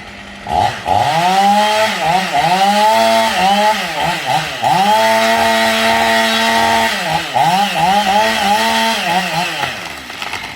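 Husqvarna 50 Rancher chainsaw's two-stroke engine being revved, with the throttle blipped up and down repeatedly. It holds at high revs for a couple of seconds in the middle, then drops back near the end.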